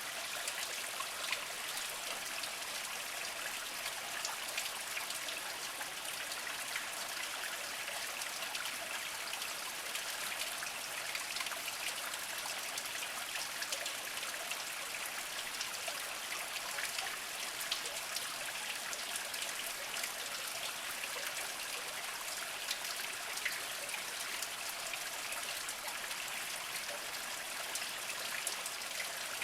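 Small spring water trickling and splashing steadily over mossy rocks, a continuous fine patter of many small drips.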